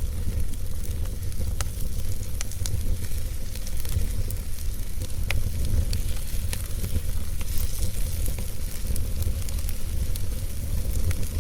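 Fire burning in a fireplace: a steady low rumble and hiss, broken by scattered sharp crackles and pops at irregular intervals.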